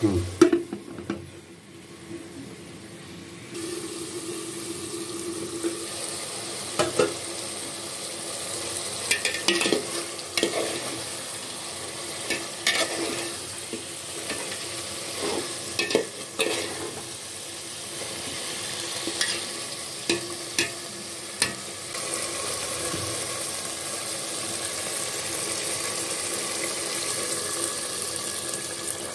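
Beef curry sizzling in a metal pot while a steel spoon stirs it, with irregular clinks and scrapes of the spoon against the pot.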